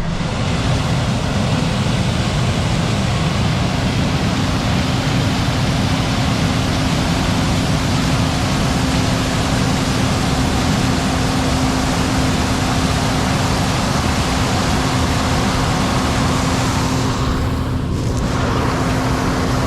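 Case IH 8940 diesel tractor running hard with the grain cart's unloading auger engaged, a loud steady rushing noise with a constant hum, as corn is emptied into a truck. The high rushing sound thins briefly near the end.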